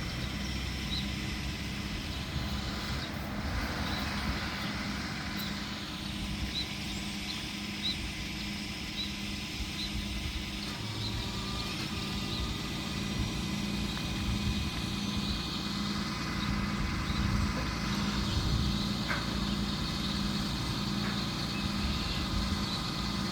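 Tow truck engine running steadily with a low rumble. A faint regular ticking sounds over it for roughly the first ten seconds.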